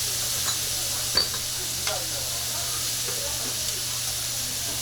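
Pork sizzling steadily on a hot iron griddle plate, with a few sharp clicks of a utensil against the metal, the loudest a little over a second in.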